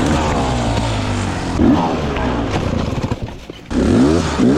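Dirt bike engine revving up and down through the throttle, its pitch rising and falling repeatedly, with a few short knocks. The engine drops away briefly about three seconds in, then revs sharply back up.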